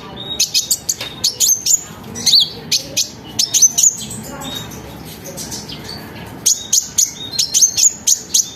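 A kolibri ninja (konin), a sunbird, singing in rapid bursts of sharp, high chirps and short slurred trills, pausing briefly midway before starting up again.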